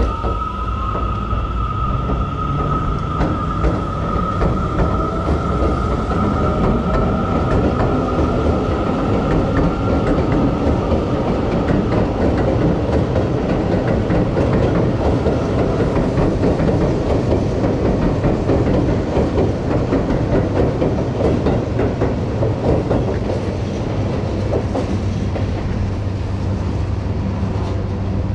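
Seibu 30000 series electric commuter train running past the platform. In the first seconds its motor whine rises in pitch as it gathers speed, over a steady high whine. Then the steel wheels clatter over the rail joints with a dense run of clicks, loudest through the middle.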